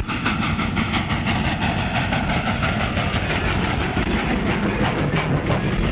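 Train running at speed on the film's soundtrack: a steady rumble with a rapid, even clatter.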